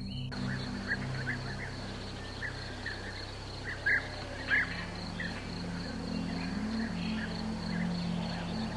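Birds calling in short, repeated notes, with two louder calls near the middle, over a low steady hum of background music.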